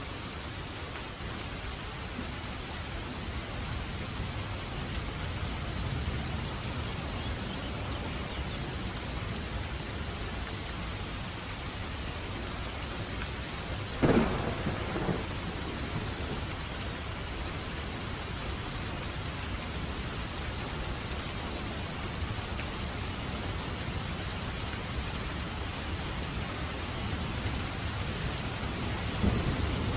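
Steady heavy rain on a roof with low rolling thunder. About halfway through, a sharp close thunderclap is the loudest sound, with a smaller crack just after, and another rumble builds near the end.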